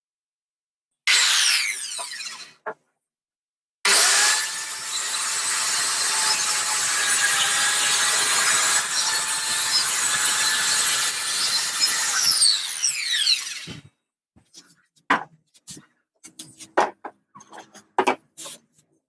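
Bosch GKS 140 7-inch circular saw: a short burst of the motor spinning up and winding down, then a longer run of about ten seconds as the blade cuts along a wooden board, ending in a falling whine as the blade spins down. Light knocks and clicks of handling follow near the end.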